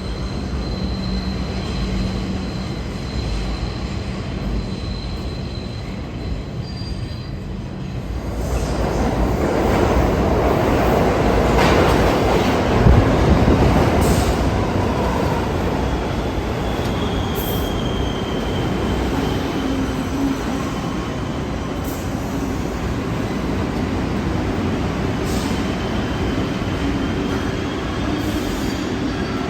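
New York City Subway train in the station: a steady hum at first, then much louder running noise about a quarter of the way in, with high-pitched wheel squeals several times later on.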